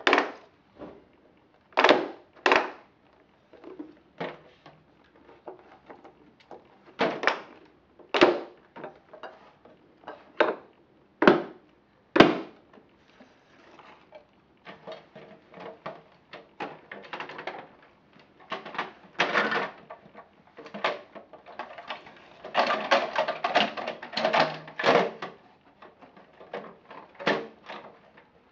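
Plastic toy garbage trucks and bins being handled: separate sharp knocks and clacks at first, then about halfway through, a stretch of denser rattling and clattering.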